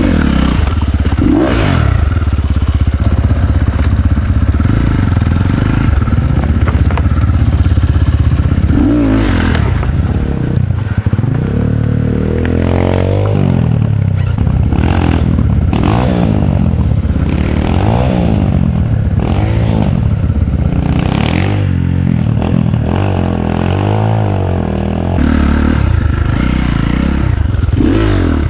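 Dirt bike engine revving up and down again and again as the bike is ridden over rough ground, with clattering and scraping from the machine.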